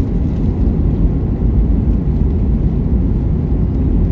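Steady low rumble of jet engines and airflow inside a Boeing 737 airliner cabin during the descent before landing.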